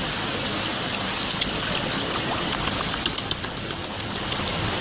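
A steady rushing hiss of water, with a patter of quick small ticks like drops or splashes through the middle.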